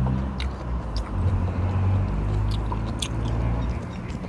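A man chewing a mouthful of rice and stew eaten by hand, with a few short wet mouth smacks, over a low steady engine hum that fades near the end.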